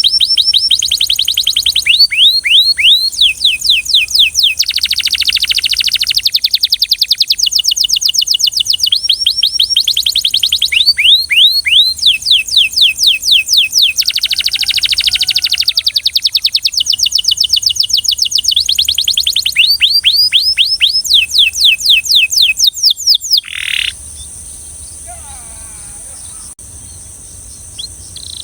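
Belgian canary singing in rolling trills: phrases of fast, evenly repeated falling notes, each run at its own speed. The song breaks off with a short loud note about 23 seconds in.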